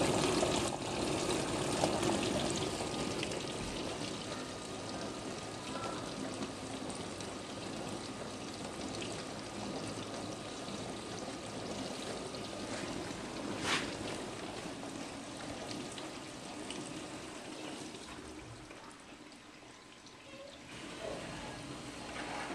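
Frigidaire Gallery dishwasher running its normal wash cycle: the wash pump motor hums while water sprays and splashes steadily inside the plastic tub. There is one sharp click about halfway through. Near the end the spray dies down briefly, then picks back up.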